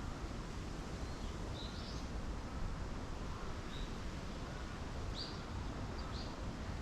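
Small birds giving short, high chirps now and then over a steady outdoor rumble of wind or distant ambient noise.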